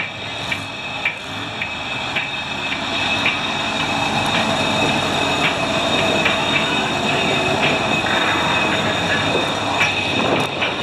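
Heavy tractor-pull machine running under load as it drags the weight-transfer sled: a steady drone with a sharp click about twice a second.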